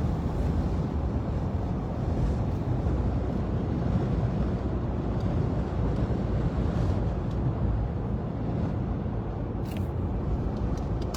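Steady road and engine noise of a car being driven, as heard from inside the moving car.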